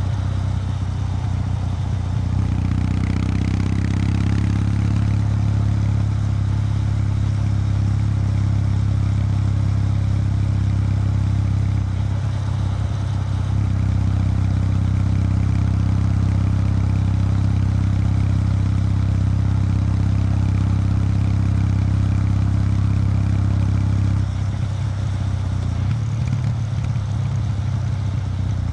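Exhaust note of a 2019 Kawasaki W800 Street's air-cooled parallel-twin engine on its stock exhaust, running steadily. The revs rise about two seconds in, dip briefly around the middle, and drop lower near the end.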